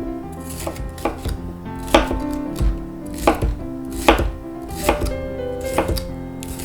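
A kitchen knife cutting bell pepper on a cutting board, with irregular strokes about one or two a second, each a sharp tap of the blade on the board. Quiet background music plays underneath.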